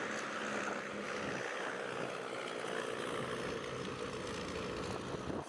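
Early-era vintage race cars running on the track: a steady engine noise without sharp events.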